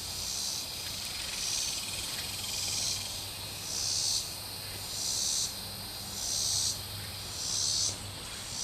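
Insect chorus: a high buzz that swells and fades in regular pulses about once a second.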